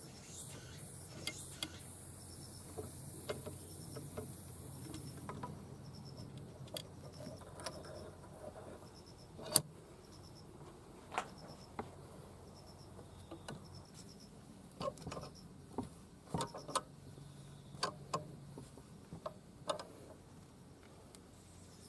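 Scattered clicks and knocks of metal engine parts and tools being handled, the loudest about ten seconds in and a cluster near the end. A faint, evenly repeating high chirp runs through the first half, over a low steady hum.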